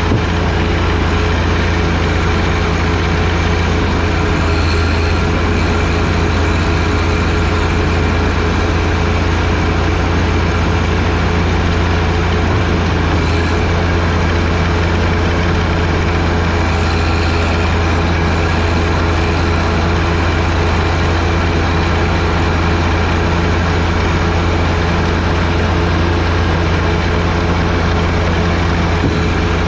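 John Deere 1025R tractor's three-cylinder diesel engine running at a steady speed with its 47-inch front snowblower, a constant low hum under a steady rushing noise.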